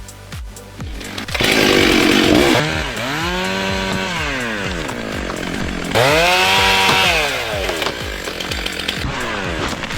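Chainsaw running hard: a loud rasping cut starts about a second in, then the engine revs up and back down twice. Background music with a beat plays at the start.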